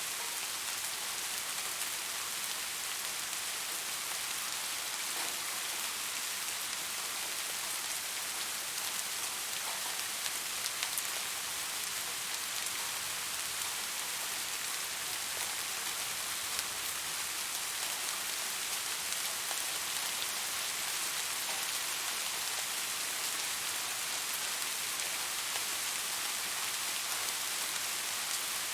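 Steady rain falling on a surface, a constant hiss dense with fine drop patter.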